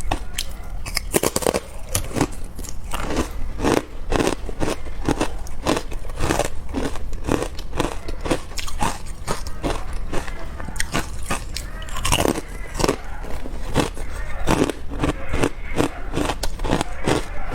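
Carbonated ice being bitten and chewed close to the microphone: repeated hard crunches and cracks, about two or three a second, with one louder crack about twelve seconds in.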